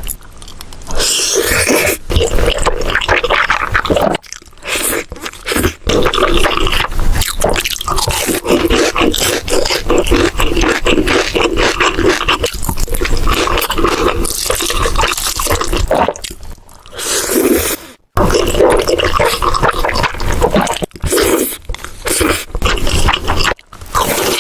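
Close-miked eating: loud, steady crunching and chewing of food, broken by a few short pauses.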